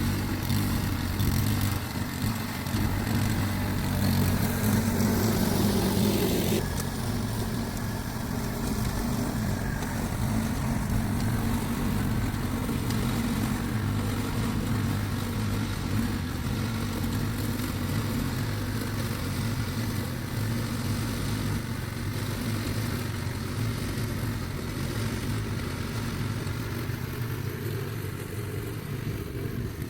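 An engine running steadily, with a rushing noise over it that stops suddenly about six and a half seconds in.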